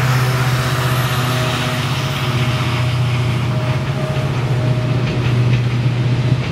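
Train running past: a steady low drone over a constant rumble of wheels on rails.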